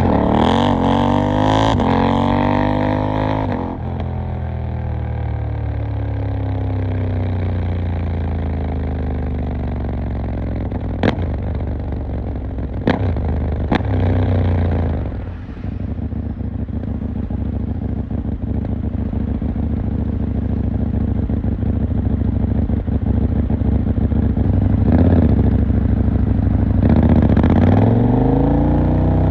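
KTM 890 Duke R's parallel-twin engine, heard from on the bike, revving up through the gears at first, then winding down with the revs falling, with three sharp clicks along the way. It then runs steadily at low revs for about ten seconds before revving up again as it pulls away near the end.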